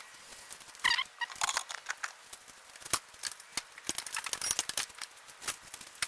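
Irregular metallic clicks, taps and clinks of hand tools being worked on a car, with a short squeak about a second in.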